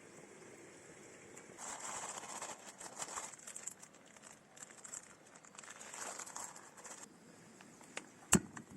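Crackling, crinkling noise in two spells of a couple of seconds each, then one sharp snap near the end.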